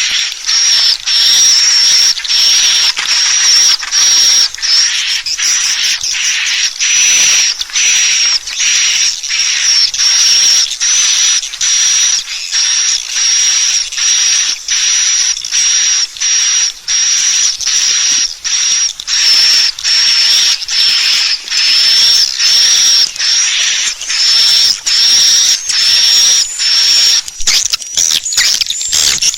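Swiftlet lure call: a continuous stream of high, twittering chirps repeating rapidly, as played to draw swiftlets into a nesting house.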